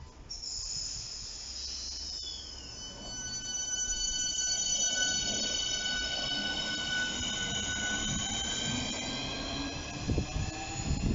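A Southeastern electric multiple unit moving slowly through the station, giving out a steady high-pitched whine made of several tones, one of which glides down about two seconds in, over a low rumble from the wheels. Near the end there is a run of low thumps.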